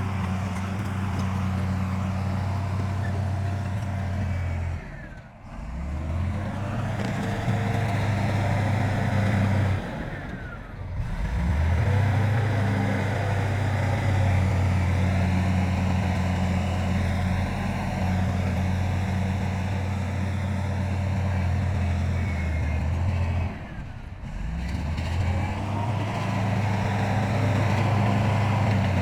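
Heavy diesel engine of earthmoving machinery running with a steady low drone, briefly dropping away three times.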